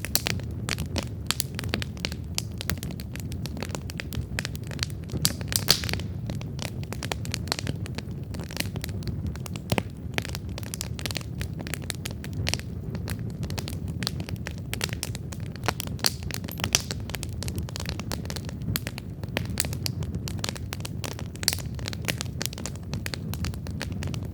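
Wood campfire burning steadily, with dense irregular crackling and sharp pops from the burning logs over a soft low rumble of the flames. A few louder pops stand out, one about five seconds in.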